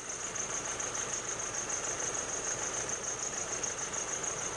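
Nissan Navara D40's 2.5-litre common-rail turbo diesel idling roughly with a cylinder misfire, and a steady high whine over it.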